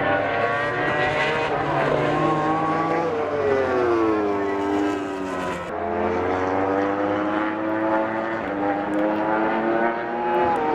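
MotoGP race bikes at high revs passing one after another, each engine note falling in pitch as it goes by. A fresh bike comes through about three seconds in and again near the six-second mark, and the notes overlap.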